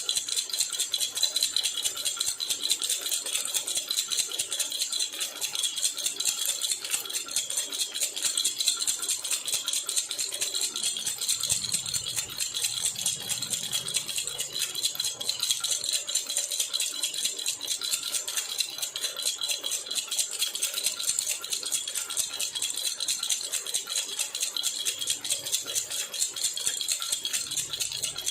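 Jhunjhuna baby rattle shaken continuously in a fast, even rhythm, giving a steady bright rattle with no pauses.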